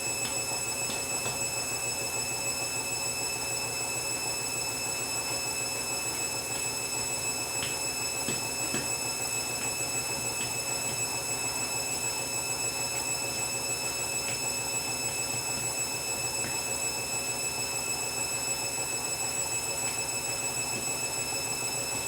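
Front-loading washing machine running mid-cycle: a steady motor hum with a constant high-pitched whine and a few faint ticks.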